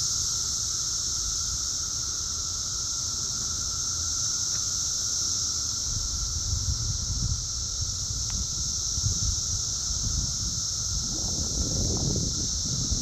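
Chorus of periodical cicadas: a very loud, steady, high-pitched droning buzz with a fainter, lower whine beneath it.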